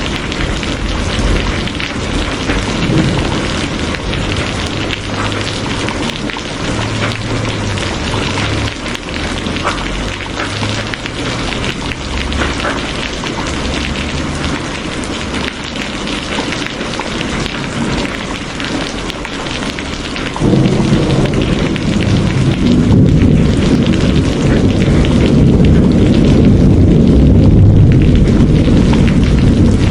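Steady, heavy rain falling. About two-thirds of the way through, a deep rumble of thunder comes in suddenly and keeps on, making the whole sound louder.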